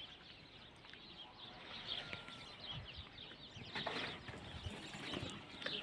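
Faint outdoor quiet with scattered, brief bird chirps, a little louder about four seconds in.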